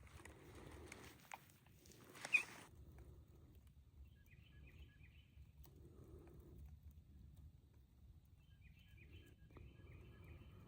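Faint songbird chirps in two short runs of quick notes over a quiet outdoor background. Rustling is heard at the start, with one sharp brushing click a couple of seconds in.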